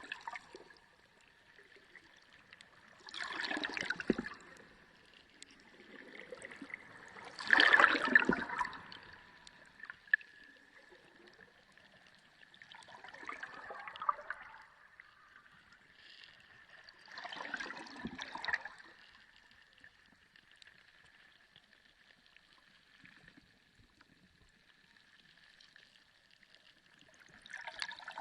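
Underwater ocean ambience: swells of gurgling, bubbling water every few seconds, with a longer lull before the last one, over a faint steady tone.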